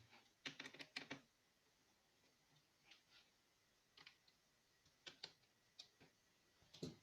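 Faint, irregular light clicks and taps. There is a quick cluster of several about half a second in, then single clicks or pairs about once a second.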